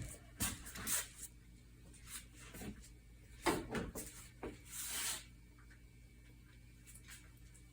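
Irregular light rubbing and scraping with a few soft knocks, stopping about five seconds in.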